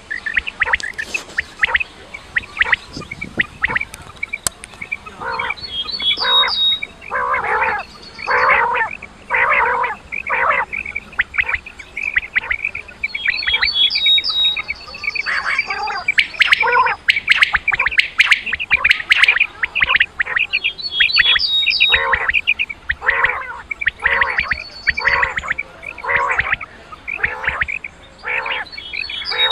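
Quail (batair) calling over and over in a recorded lure call, one short call about every second, with a few brief higher chirps mixed in.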